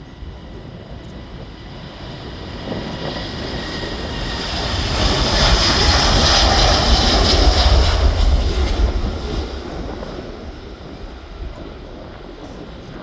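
Jet airliner taking off, its engine noise swelling to a peak about halfway through and then fading as it passes.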